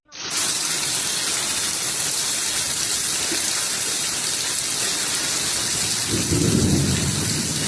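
Heavy rain falling steadily as a loud, even hiss that starts abruptly; a lower rumble joins in about six seconds in.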